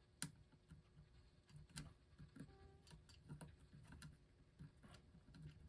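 Faint, irregular small clicks and taps of hands working a part into a record player mechanism.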